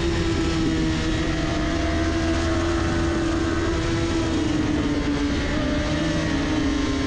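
Kawasaki Ninja 400 parallel-twin engine running at high revs under way, its pitch holding nearly steady and sagging slightly, under steady wind rush.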